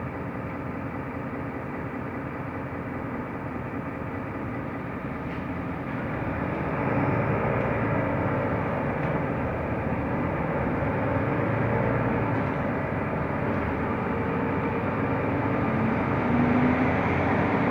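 Mercedes-Benz O345 Conecto LF city bus heard from inside: engine and running noise, idling at first, then growing louder about six seconds in as the bus pulls away and gathers speed.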